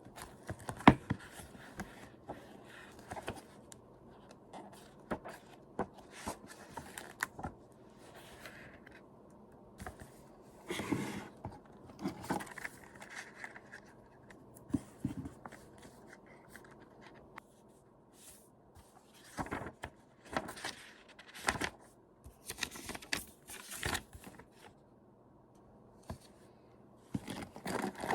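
Irregular clicks, scrapes and rustles of small objects and paper being handled close to the microphone.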